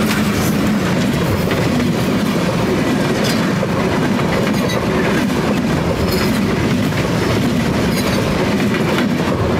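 A train passing at close range, its steel wheels rolling along the rail with a loud, steady rumble and irregular sharp clacks as the wheels go by.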